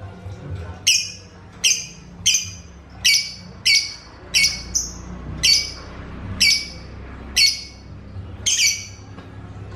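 Lovebird giving a string of about ten sharp, shrill squawks, roughly one every three-quarters of a second, over a faint low hum.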